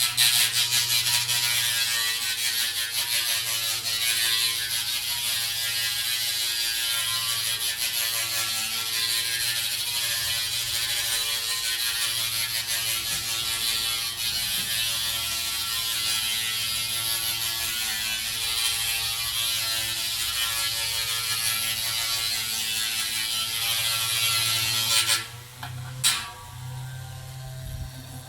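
Small DC motor of a homemade toy boat running with a steady buzzing whir, stopping about 25 seconds in, followed by a click.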